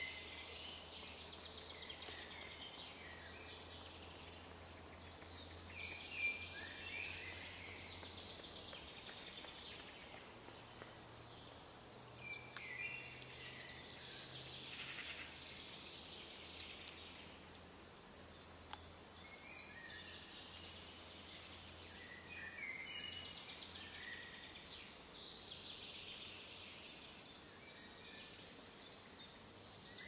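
Songbirds in woodland calling faintly in short chirping phrases every few seconds, with a few sharp clicks, most of them in the middle.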